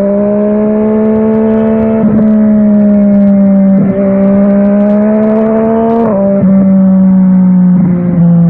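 Yamaha Tracer 900 GT's inline-three engine through an aftermarket WR Authentic exhaust, running at a steady pitch while riding. The pitch rises a little and then breaks briefly about two, four and six seconds in.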